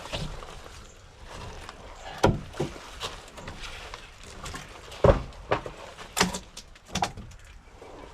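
Irregular knocks and clunks of hands-on work on a wooden deck, about half a dozen, the sharpest about two and five seconds in.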